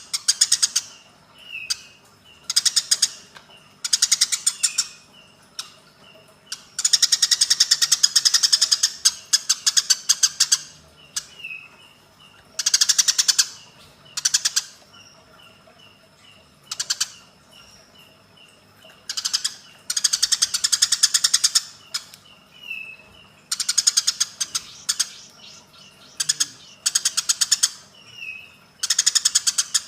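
Eurasian tree sparrows giving their fighting call: bursts of very fast, harsh chattering, each lasting from under a second to about three seconds and broken by short pauses, with small chirps in between. The longest bursts come about a third of the way in and again around two thirds of the way through.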